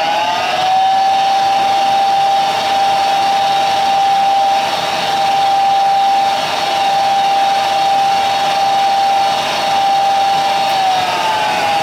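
York 90+ gas furnace's draft inducer fan motor running with a steady high whine during the ignition sequence, which settles in within the first second and drops in pitch near the end.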